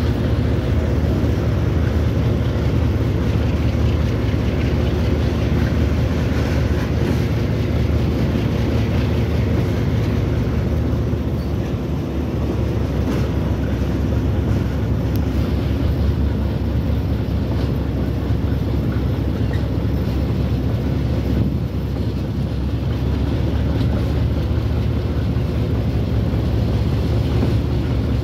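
Steady low drone and rumble of a diesel-hauled train running at speed, from the locomotive engines and the moving train, dipping slightly a couple of times.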